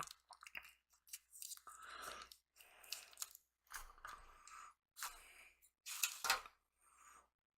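Close-up chewing and crunching of food in the mouth, in short bursts about once a second, with a few sharp clicks.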